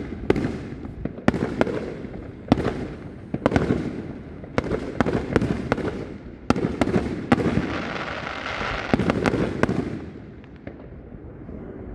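Fireworks going off in quick succession, sharp bangs overlapping one another with rumbling and crackling between them. The bursts thin out and fade near the end.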